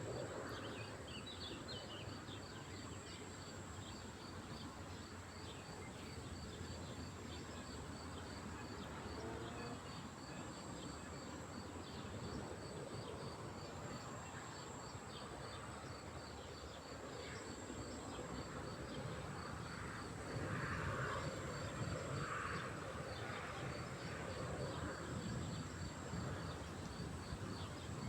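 Outdoor lakeside ambience: a steady, high insect buzz with an even, rapid ticking, over a low background hiss. It grows briefly louder about two-thirds of the way through.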